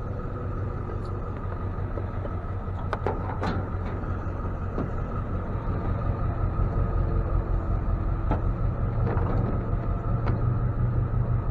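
A truck engine idling with a steady low rumble that grows slightly louder about halfway through, with a few light clicks and knocks over it.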